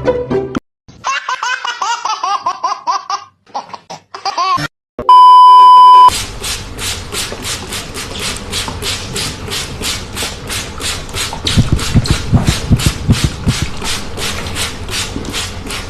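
A high-pitched wavering voice, much like laughter, then a loud steady beep of about a second, like a censor bleep, followed by a fast, even pulsing noise of about four beats a second.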